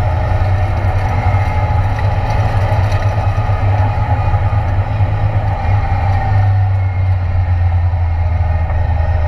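Ford Escort Mk2 race car's Cosworth engine running at low, steady revs, heard from inside the stripped, roll-caged cabin.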